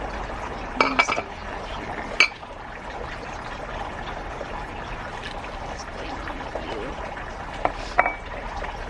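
A handful of sharp knocks and clinks of plant pots and planters being handled, in two clusters near the start and near the end, over a steady background hiss.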